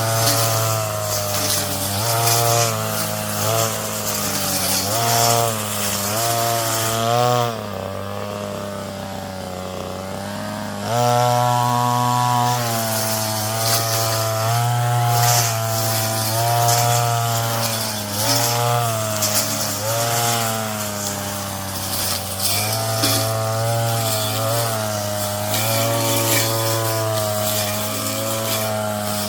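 Brush cutter engine running at high throttle while cutting weeds, its pitch rising and falling as the load changes. About a quarter of the way in it drops back to idle for roughly three seconds, then revs up again.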